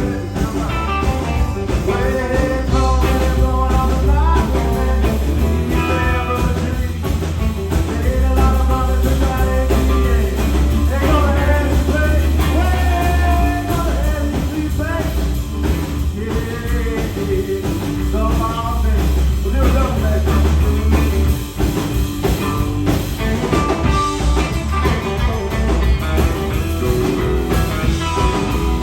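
Live rock trio playing a song: electric guitar, bass guitar and drum kit, with a heavy bass line underneath.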